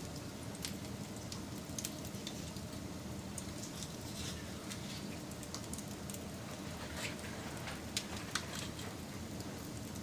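Campfire burning: a steady low rush of flame with scattered crackles and small pops of burning wood, the two sharpest pops about eight seconds in.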